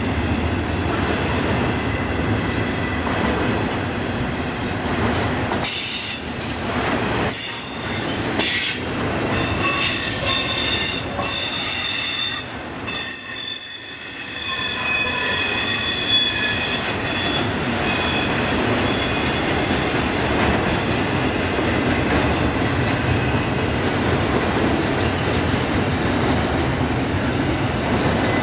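Double-stack intermodal container freight train rolling past close by: a steady rumble and clatter of wheels on rail. In the first half, high-pitched wheel squeal rises above it for several seconds.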